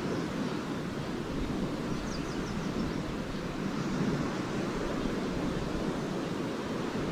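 Lake waves washing steadily onto a sandy shore, a continuous rushing surf. About two seconds in comes a brief run of faint, high swallow twitters.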